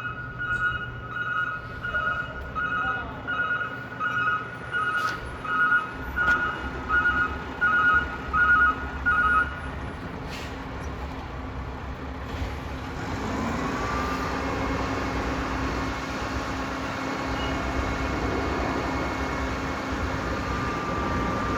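Roll-off truck's backup alarm beeping at about one and a half beeps a second over the running diesel engine. The beeping stops about halfway through, and soon after, the engine speed rises and holds at a steady higher pitch.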